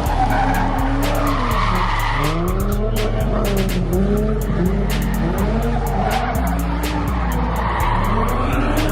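A car doing a burnout, its engine revving up and down over and over and its tyres squealing. Music with a steady beat plays underneath.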